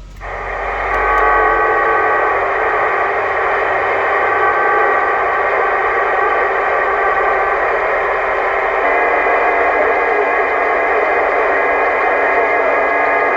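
Radio receiver hiss between transmissions: a steady band of static heard through the radio's speaker, with faint steady whistling tones running through it.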